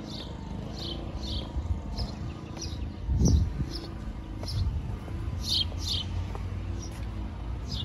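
A bird chirping repeatedly, short falling chirps about twice a second, over a steady low hum of a portable generator running some way off. A brief low rumble comes about three seconds in.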